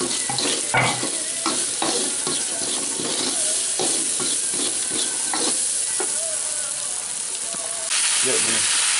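Tempeh cubes sizzling in hot oil in a wok, with a spatula scraping and knocking against the pan at irregular intervals as they are stirred. About eight seconds in, the sizzle turns louder and steadier once the boiled papaya leaves are in the wok.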